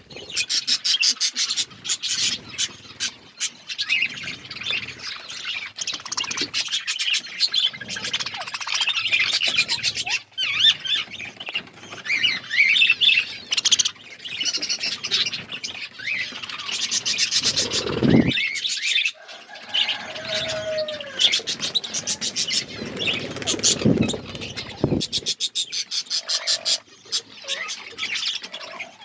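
A flock of budgerigars chirping and chattering without a break, with squawks and fast clicking trills among the calls.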